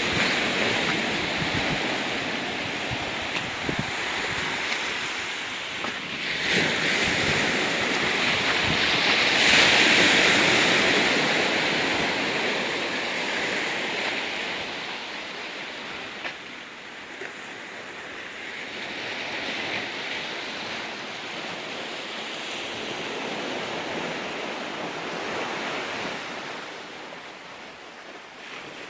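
Ocean waves washing in on a rocky beach, with wind buffeting the microphone. The surf swells to its loudest about ten seconds in, then ebbs and softens toward the end.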